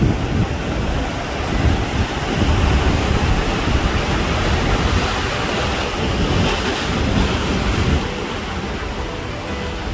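Ocean surf on a beach: waves breaking and washing in as a continuous roar, swelling in the middle with a brighter hiss of washing water, with wind rumbling on the microphone.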